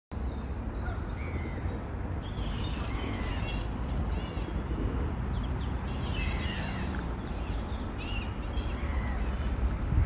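Wild birds calling at the waterside: clusters of high-pitched calls that recur every second or two, over a steady low rumble.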